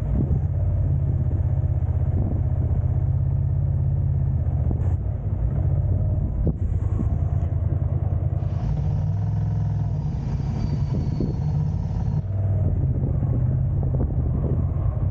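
Car on the move: a steady low rumble of engine and road noise, with a hiss joining in for a few seconds in the middle.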